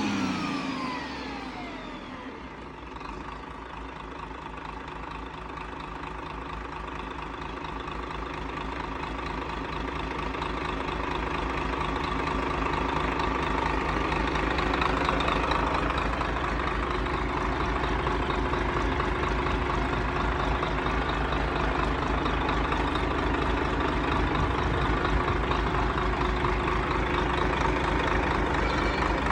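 Diesel engine idling steadily, its firing heard as rapid even pulses, growing louder over the first ten seconds or so. A falling tone fades out in the first two seconds.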